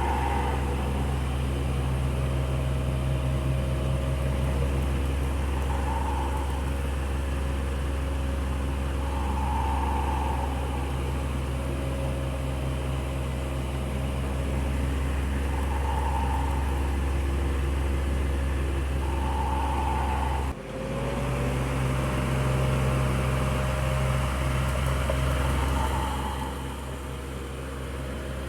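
Electric fan running steadily: a low motor hum under an even rush of moving air, with a faint higher tone that swells and fades every few seconds. The sound drops out for a moment about two-thirds of the way through.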